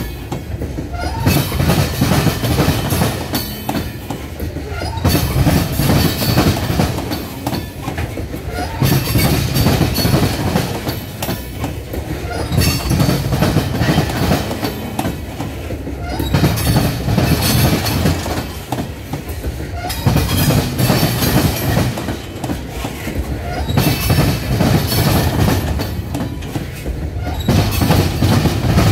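Loaded coal hopper cars rolling slowly past, their steel wheels clacking over the track. The clacking swells into a louder surge every three to four seconds, about one per car.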